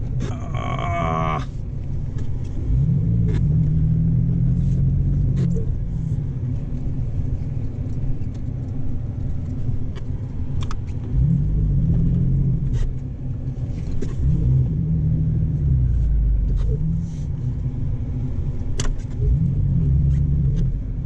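Lifted Ford Ranger's engine pulling through deep snow, its revs repeatedly rising and falling every few seconds.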